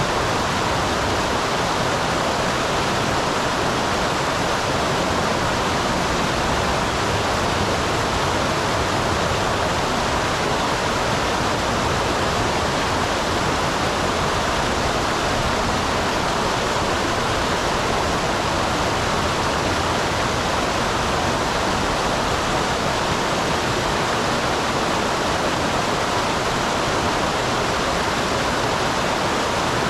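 Small waterfall on a mountain stream, water pouring and splashing in a steady, unbroken rush.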